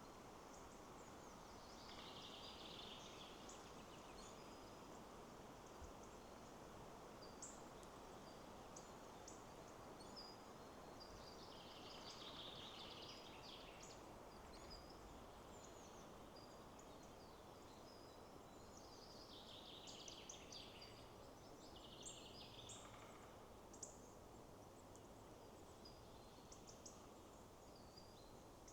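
Faint wind in the trees as a steady rushing, with small birds singing short chirping phrases that return roughly every ten seconds and scattered high chirps in between.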